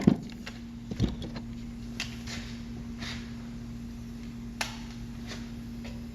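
A sharp knock, a second knock about a second later, then faint scattered clicks over a steady low hum.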